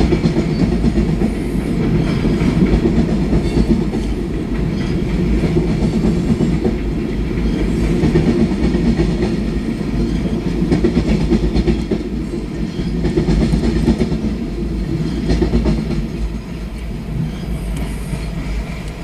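Freight train tank cars rolling past at steady speed, a continuous low rumble with wheels clacking over the rails. The sound eases off a little near the end as the last cars go by.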